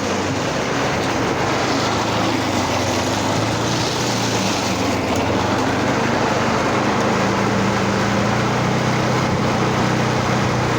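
Small lawnmower engine, turned on its side to drive a vintage reel mower, running steadily.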